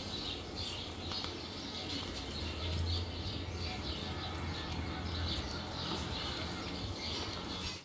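Birds chirping over and over, about twice a second, above a steady low hum; it all stops abruptly near the end.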